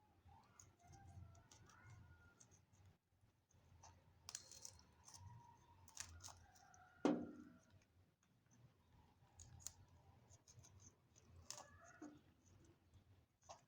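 Pet parrots' beaks clicking and snipping softly, as when nibbling food such as cucumber, with faint chirps and a few short calls, the loudest about seven seconds in.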